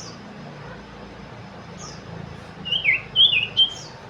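Common iora (cipoh) calling: a few short, high, down-slurred notes, and a quick run of loud chirping notes about two and a half seconds in.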